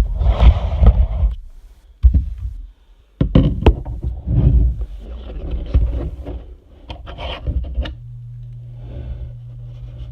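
Hands handling small plastic model parts and packaging: irregular scraping and rustling with several sharp clicks, a brief lull about two to three seconds in, and a faint low hum near the end.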